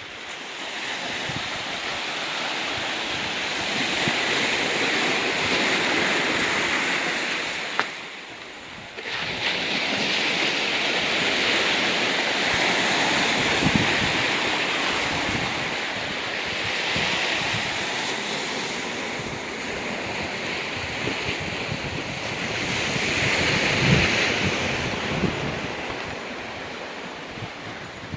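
Sea waves breaking and washing on a rocky beach, swelling and fading in several surges, with wind blowing on the microphone. A brief lull comes about eight seconds in.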